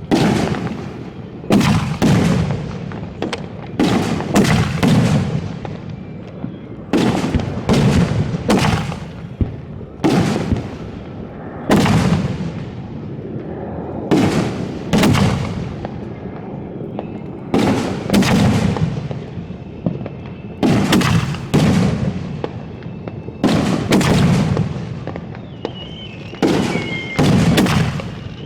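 Fireworks finale heard from close to the launch site: a rapid run of loud booms, one or two a second and sometimes in quick pairs, each trailing off in a low rumble. Near the end a faint wavering high tone sounds behind the booms.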